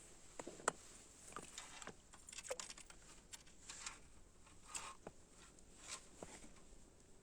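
Faint, irregular light clicks, taps and short rustles, the sharpest a click just under a second in.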